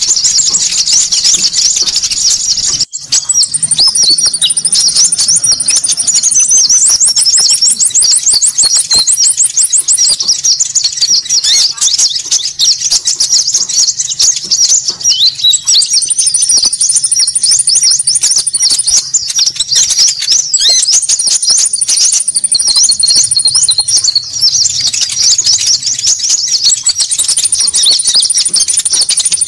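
Bird-lure recording of konin birds calling noisily: dense, rapid, high-pitched chattering from several birds at once. Long thin high trills come in again and again over the top, and the sound breaks off for a moment about three seconds in.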